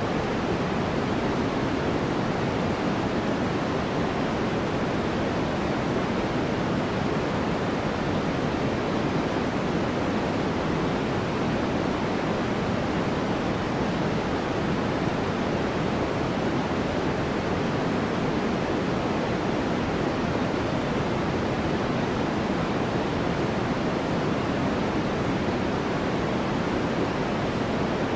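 Continuous white noise for sleep: a steady, even hiss that never changes, fuller in the low and middle range than in the treble.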